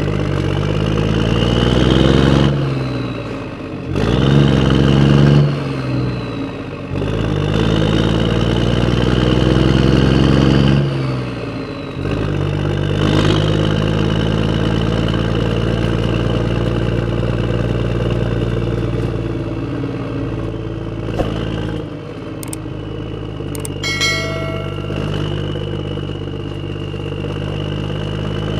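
An engine revving up and down several times, then running steadily at constant speed from about twelve seconds in. A short ringing tone sounds near the end.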